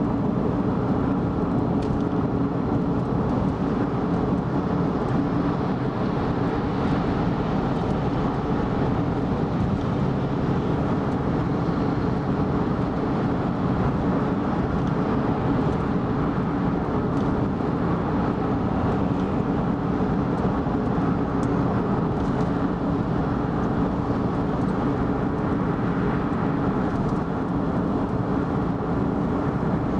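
Car driving at expressway speed: steady, unbroken road and engine noise.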